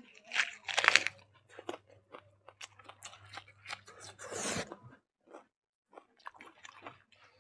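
Close-miked chewing of rice and chicken curry eaten by hand, many short wet clicks and smacks, loudest about half a second to a second in.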